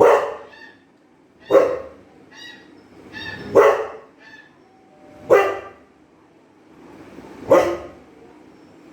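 Dog barking in reaction to played dog sounds, five loud single barks about two seconds apart, with fainter, higher-pitched calls in between.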